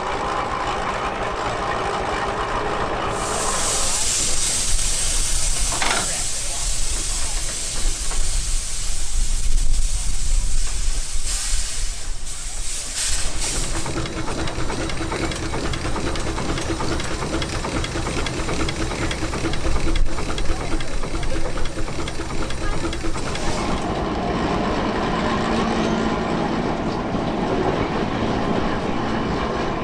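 A railway train running, with a loud hiss starting about three seconds in and stopping about ten seconds later.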